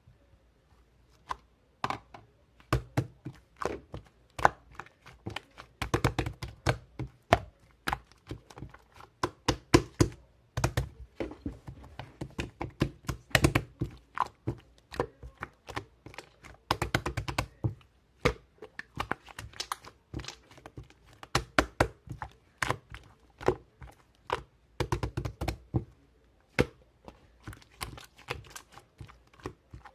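Rapid, irregular clicks and taps in bursts, some runs very fast, with dull thuds under the densest runs.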